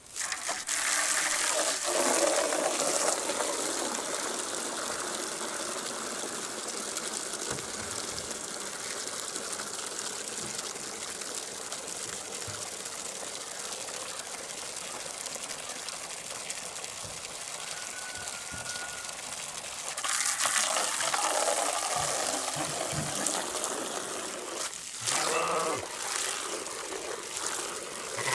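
Sheep bleating a few times, near the start and again about two-thirds of the way through, over a steady rushing background noise.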